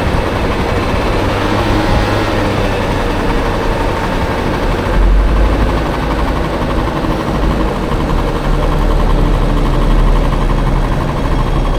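Small motor scooter with a swapped-in Honda Dio two-stroke engine running on the move, under a steady rush of wind and road noise that grows heavier and lower about halfway through.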